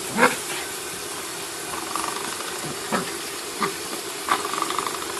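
Coiled-spring door stopper being flicked and twanging about five times, each a short sharp boing, some ringing on briefly, over a steady hiss.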